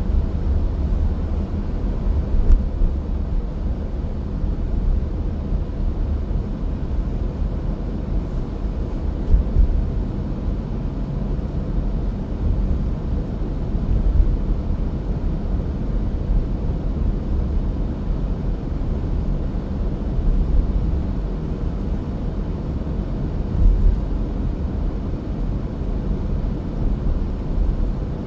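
Steady low rumble of a car driving: road and engine noise, with a few brief louder bumps.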